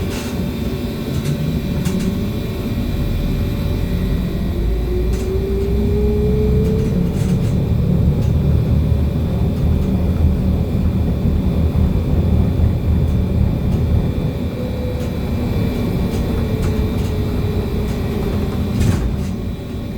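BKM-321 trolleybus under way, heard from inside the cabin: a steady rumble of the road and body, with the electric traction motor's whine rising in pitch as it accelerates a few seconds in, then falling again near the end as it slows.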